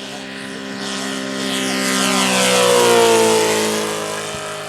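Saito FG-84R3 three-cylinder radial petrol engine of a large-scale radio-controlled Mitsubishi A6M5 Zero model, flying past at speed. It grows louder to a peak about three seconds in, and its pitch drops as it passes, then fades.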